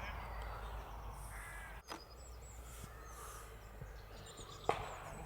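Birds calling, with crow-like caws and small high chirps, over a low steady rumble of wind on the microphone. A single sharp knock comes near the end.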